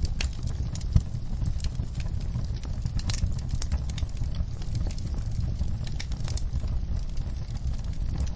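Wood fire in a fireplace crackling, with frequent sharp pops over a steady low rumble of the flames; one louder pop about a second in.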